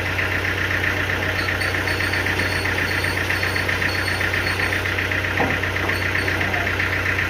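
Sawmill machinery running steadily: a low, even hum under a fast, regular pulsing, with one faint knock about five and a half seconds in.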